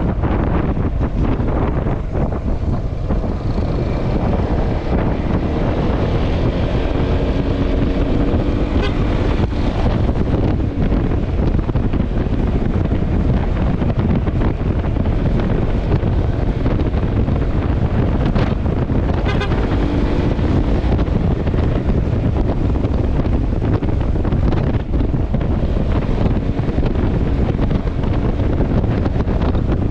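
Wind buffeting the microphone on a moving Yamaha XMAX scooter, with its engine and road noise running steadily underneath.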